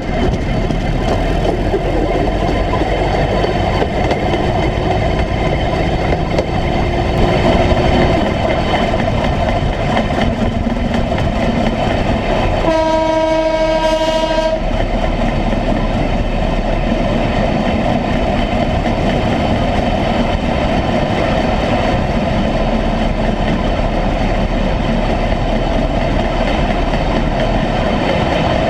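A 1957 Series I Land Rover on flanged railway wheels running along the track: steady engine and wheel-on-rail noise. About halfway through, a horn sounds once for about two seconds.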